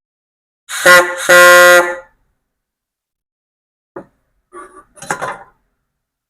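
A horn honks twice with a steady pitch, a short blast then a longer one. A click and a few softer noises follow a few seconds later.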